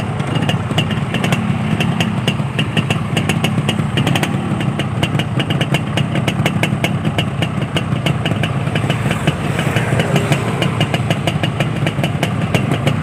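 Yamaha RX-King two-stroke motorcycle engines running, with a rapid crackle of sharp ticks over the first four seconds or so.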